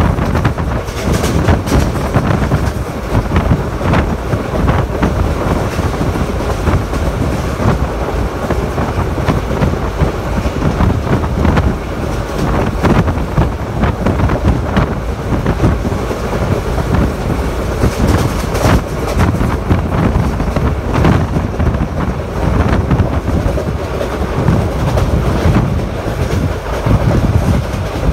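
Moving passenger train heard from inside the carriage: a steady rumble of wheels on rails with irregular clacks over the track joints.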